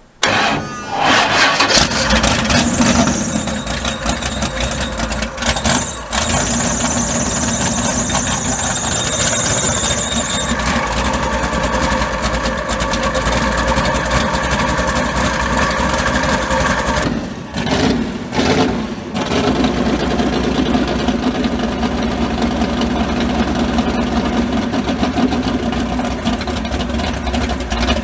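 Big-block Chevy V8 of a mud bog truck cranked by its starter and catching within about two seconds, then running loudly and steadily; the engine note sags twice about two-thirds of the way through.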